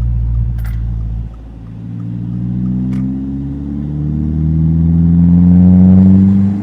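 Subaru WRX tS's turbocharged flat-four engine accelerating under load. The note dips a little over a second in, then climbs steadily in pitch and loudness and falls away just before the end. Two short clicks are heard along the way.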